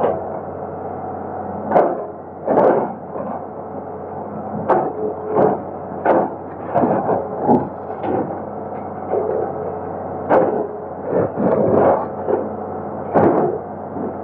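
Excavator engine running steadily, with irregular loud knocks and crunches of the bucket working against the concrete and steel of a bridge it is breaking up.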